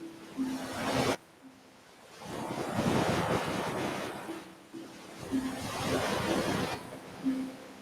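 Ocean waves breaking and washing up a beach, the surf rising and falling in several surges, with a few short low tones among them.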